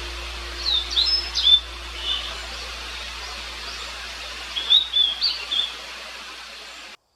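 Blue-and-white flycatcher singing: two short phrases of high, clear whistled notes a few seconds apart, over a steady background hiss. The sound cuts off near the end.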